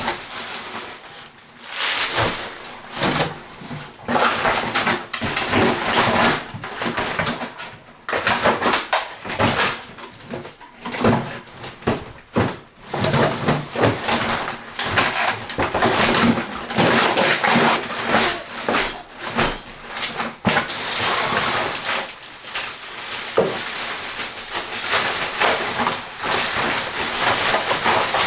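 Cleaning and clearing sounds: irregular rustling and scraping with frequent short knocks and clatter.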